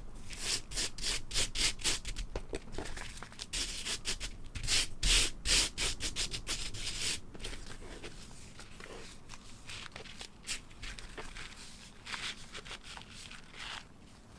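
Colored sand being rubbed and brushed across a sticky sand-painting board in quick scratchy strokes, busy at first and fading to fainter, sparser strokes after about seven seconds.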